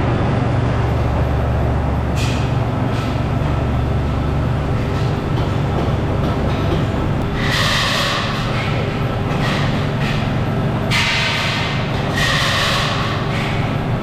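Factory machinery running with a steady low hum. About halfway through and again near the end, longer hissing, scraping bursts of metal work ride over it.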